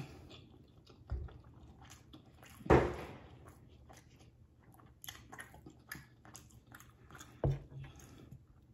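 Close-miked chewing of a mouthful of oxtail meat: wet mouth clicks and smacks. Three louder dull thumps break in, about a second in, near three seconds (the loudest) and near the end.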